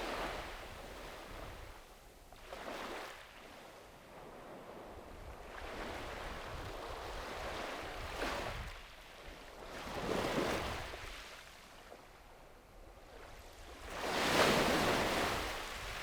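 Small sea waves breaking and washing up a beach, in swells that come every few seconds, the loudest near the end. A faint low wind rumble lies underneath.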